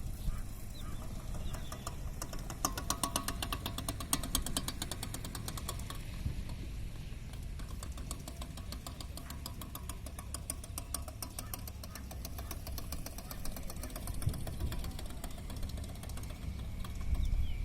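Car engine running at low speed with a steady low rumble. For much of the time a fast, even ticking sits over it.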